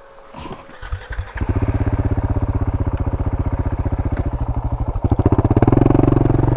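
Single-cylinder adventure motorcycle engine starting about a second in, then running with an even, rapid thump. The revs pick up a little near the end.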